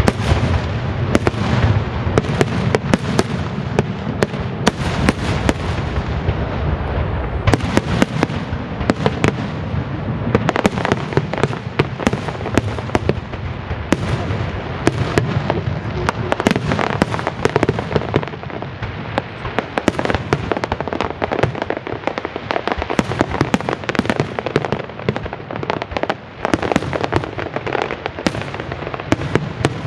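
Fireworks display: a dense, continuous volley of shells bursting, many sharp bangs and crackles over a steady low booming.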